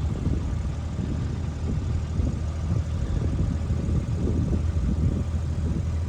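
Car heard from inside the cabin: a steady low rumble of engine and road noise.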